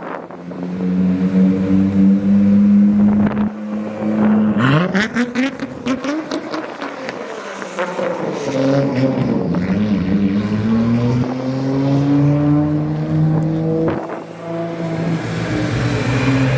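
Modified car engines idling and being revved as the cars drive out, with a sharp rise in revs about four and a half seconds in and a rapid series of sharp cracks just after it. Further engines rise and fall in pitch as they move off.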